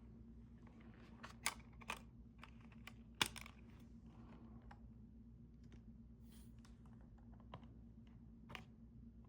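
Scattered faint clicks and light handling noises from a CD album's case and packaging being handled, with a sharper click about three seconds in, over a low steady hum.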